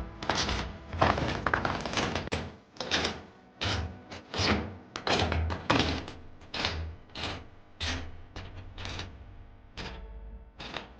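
Hiker's footsteps on a snowy mountain trail, a crunching step with a dull thud about twice a second, at a walking pace. Faint music plays underneath.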